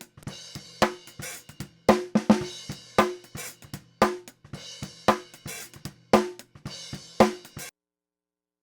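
Recorded drum kit groove: kick, snare and hi-hat hits, with a loud hit about once a second and lighter strokes between. It cuts off abruptly about three-quarters of a second before the end, leaving silence.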